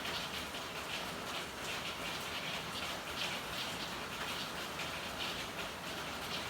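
Steady rain hiss with many irregular drips and splashes standing out over it.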